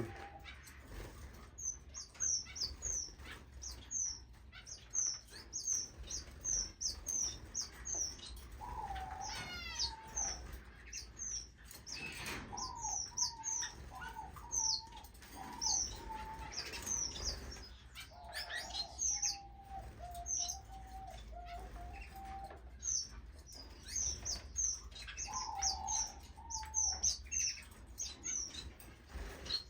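Small aviary finches and waxbills chirping: a steady stream of short, high calls, joined now and then by a lower, wavering call, with brief wing flutters.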